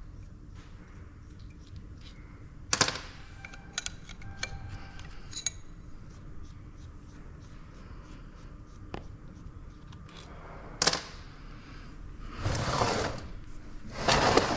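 Metal tools and small steel parts being handled: scattered sharp clicks and clinks, some ringing briefly, about three seconds in and again near eleven seconds. Near the end comes a longer scraping, shuffling noise of heavier handling.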